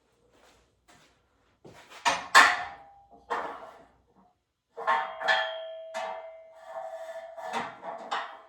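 Metal weight plates knocking together, several sharp clanks, then from about halfway a run of strikes with a sustained metallic ring.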